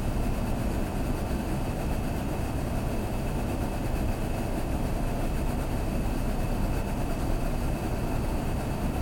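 Steady rumble and hiss inside a Kintetsu limited express car standing at the platform before departure, with a faint high whine running under it.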